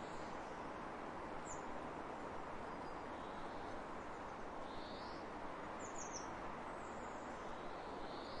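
Steady rushing wind across open fields, with a few faint, high bird chirps over it: one about a second and a half in, and a quick group of three around six seconds in.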